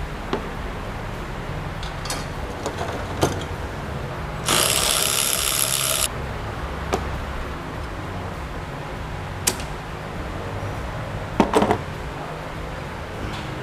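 Hand tools working on metal: scattered clicks and knocks, with a loud hiss for about a second and a half near the middle, over a steady low hum.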